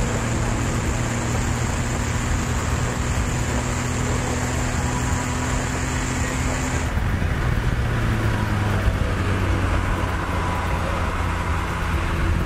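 Stock BMW 330ci's 3.0-litre inline-six running at a steady pace on track, heard from inside the open-top cabin with wind and tyre noise. About halfway through the engine note drops lower, then climbs slowly near the end.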